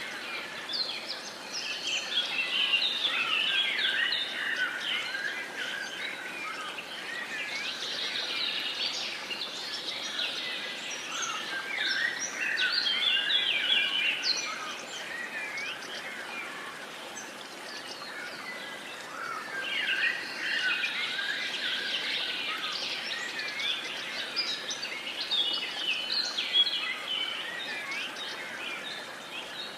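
Many birds chirping and singing at once in a busy chorus of short overlapping calls, thickening and thinning in waves, over a faint steady background hiss.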